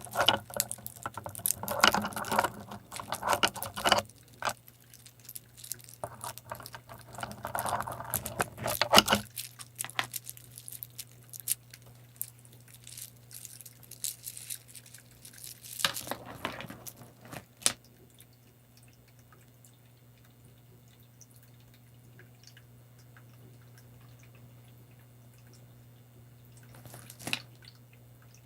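Close-miked water and small-object sounds: dense clicking and rattling with dripping for the first several seconds, then scattered clicks. After about eighteen seconds only a faint steady low hum and the odd drip remain, with a brief rattle near the end.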